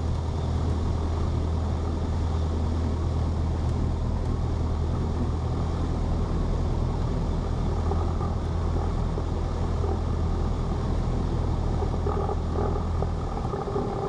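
Cessna 172P's four-cylinder Lycoming engine and propeller running steadily, heard as a low, even drone inside the cabin; the drone eases slightly near the end.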